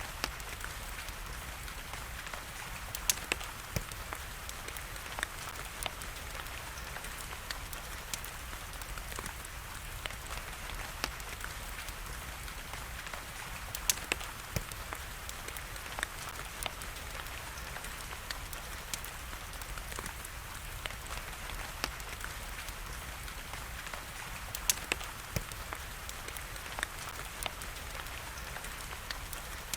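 Steady hiss of falling rain with the irregular sharp crackles and pops of a wood fire burning in a fireplace; the loudest pops come about 3, 14 and 25 seconds in.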